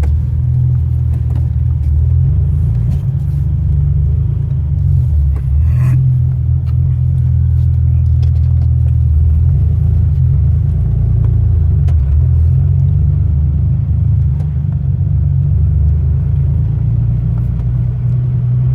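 Toyota Tacoma's 4.3-litre engine running at low speed while the truck is manoeuvred, not yet warmed up from a cold start, heard from inside the cab. It makes a steady low rumble that rises and falls slightly with the throttle.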